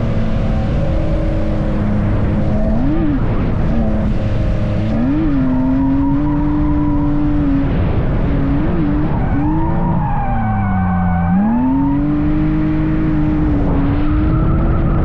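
Drift car engine held at high revs with quick throttle blips, dropping about ten seconds in and climbing back, over a steady rush of tyre noise from the car sliding.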